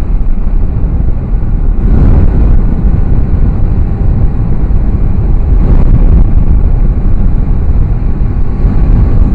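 A motorcycle on the move: loud, steady wind rush on the microphone with the engine running underneath.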